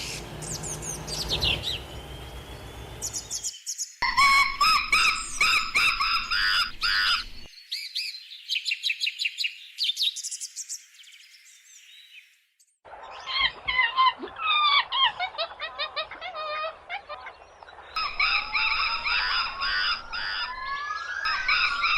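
Monkey calls: runs of high-pitched chattering and squealing calls, in several stretches, with a quieter patch around the middle.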